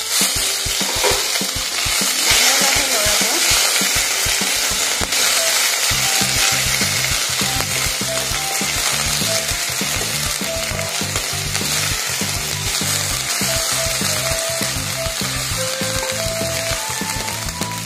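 Ginger-garlic paste sizzling steadily in hot oil in a kadai, while a spatula stirs it and scrapes and taps against the pan.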